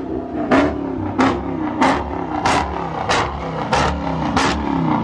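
Dodge Charger's 392 (6.4-litre) HEMI V8 revved in quick, repeated throttle blips, about one and a half a second, each rev snapping up sharply and falling away.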